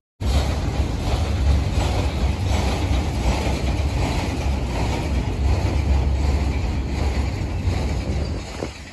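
Freight train rolling past, its steel wheels and cars clattering and rattling over the rails with a steady low rumble.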